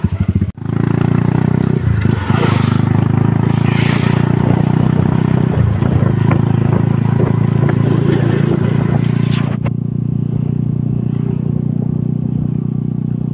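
Motorcycle engine of a passenger tricycle running at a steady cruising note, heard from inside the sidecar on a wet road.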